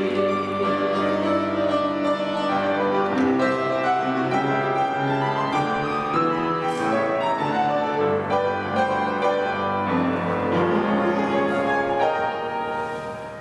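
Piano playing an instrumental interlude of a hymn arrangement between choir passages, a quick run of notes over held chords, dying away near the end.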